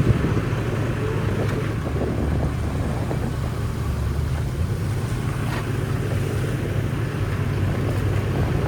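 Shantui bulldozer's diesel engine running steadily, a low, even drone.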